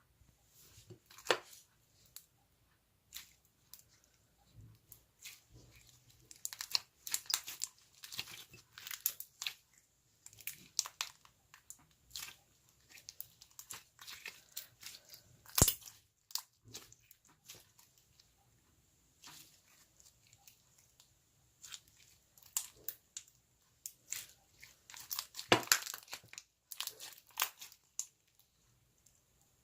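Hands playing with slime: irregular crackling, popping and crunching clicks. There is a louder snap about halfway through and a dense run of crackles near the end.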